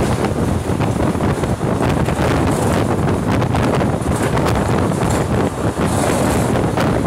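Loud rush of wind buffeting the microphone, mixed with the rumble and clatter of wheels on rail, as a passenger train passes at speed on the next track, heard from the open doorway of a moving train. The hiss swells briefly a few times.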